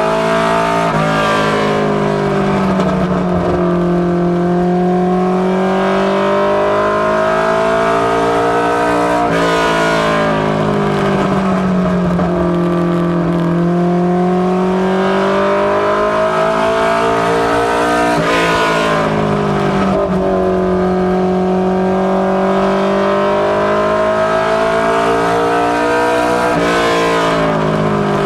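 Ford Mustang notchback ministock race car engine running hard on practice laps. The revs drop sharply four times, about every nine seconds, then climb back gradually: the car lifting into each turn and accelerating down the straight.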